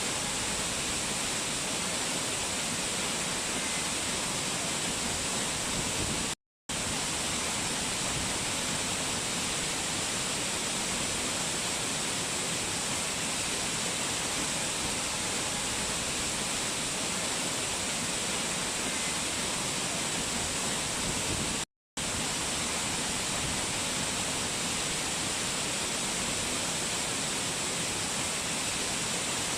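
Rushing mountain water, a waterfall or fast stream, making a steady, hissy rush. It cuts out to silence for a fraction of a second twice, about six seconds in and again about twenty-two seconds in.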